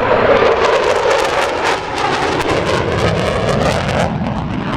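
McDonnell Douglas F-15 Eagle fighter jet on a fast flyby, its twin Pratt & Whitney F100 turbofans making loud jet noise with a crackle. The pitch falls as it passes.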